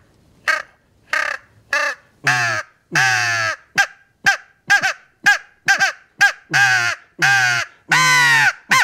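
Heckler crow call, a walnut-barrel mouth call with a hand-shaved molded soundboard, blown in a series of crow caws. It goes three short caws, then two longer drawn-out ones, a quick run of short caws, and three longer caws near the end.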